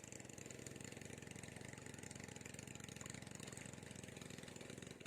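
A small engine running steadily at idle, with a fast even beat.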